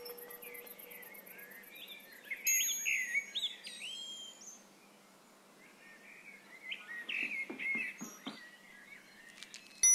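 Birds chirping and twittering in short gliding calls, busiest about two to four seconds in and again around seven to eight seconds, with a quieter gap between. A sharp click at the very end is the loudest sound.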